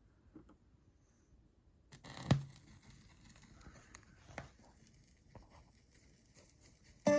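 Faint scattered clicks and knocks of handling, with one louder thump a little over two seconds in. A guitar starts playing right at the end.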